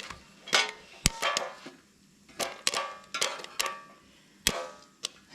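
Popcorn kernels popping under a cover on a Blackstone griddle: about ten sharp, irregular pops, several ringing briefly.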